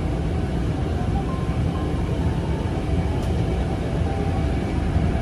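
Steady low rumble and hiss of a moving passenger train, heard from inside the carriage.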